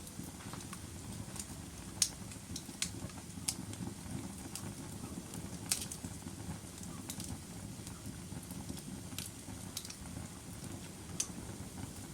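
Log fire burning in a fireplace: a steady low rumble of flames with scattered sharp crackles and pops from the wood, the loudest about two seconds in and just under six seconds in.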